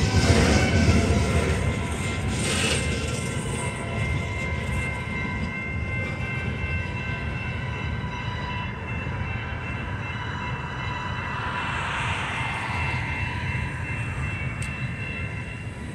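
Freight train boxcars rolling along the rails, the rumble slowly fading as the train moves away, with a thin steady wheel squeal over it.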